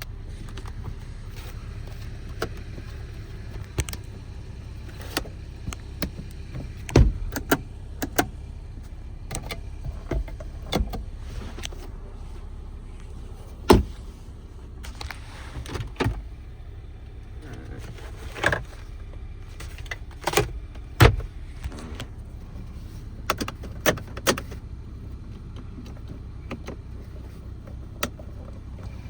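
Scattered clicks and knocks from a car's doors and controls being worked, over a steady low hum.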